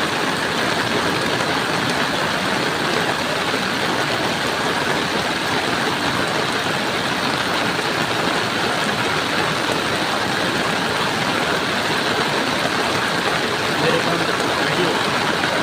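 Flash-flood water from a cloudburst, rushing past in a steady, unbroken torrent.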